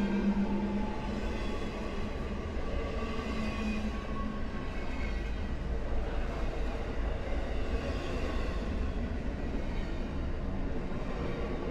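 Freight train rolling past, a steady low rumble of wheels on rail with faint steady whining tones over it. A low hum at the start fades out after about four seconds.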